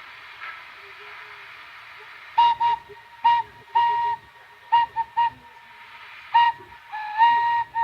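Train whistle on the Thomas the Tank Engine replica sounding as it pulls out of the station: a string of short toots, with a longer blast near the middle and a slightly rising one near the end, starting about two and a half seconds in over a steady background hiss.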